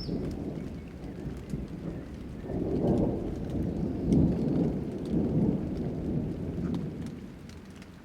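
Rain falling with a roll of thunder that swells about two and a half seconds in, rumbles on and fades away near the end.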